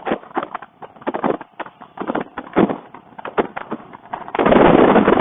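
Wind blasting the microphone of a motorcycle ridden at speed: irregular gusty thumps, then about four seconds in a continuous loud rush of wind noise.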